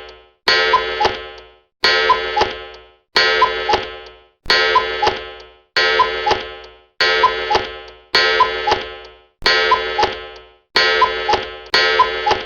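A ringing electronic tone that strikes sharply and fades, repeated in a loop about every 1.3 seconds.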